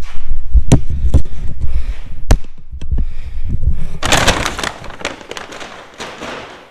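Tools and parts being handled at a workbench: a few sharp clicks and knocks in the first couple of seconds, then a harsh scraping rustle about four seconds in that fades away.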